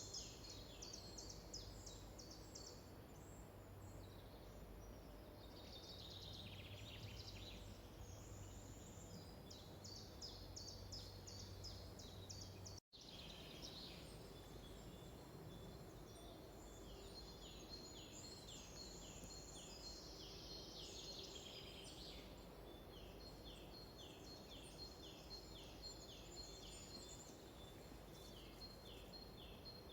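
Faint forest birdsong: several songbirds singing series of short, high, repeated notes and trills over a soft steady background hiss. The sound drops out completely for an instant about 13 seconds in, as at an edit, and a low hum heard before it is gone afterwards.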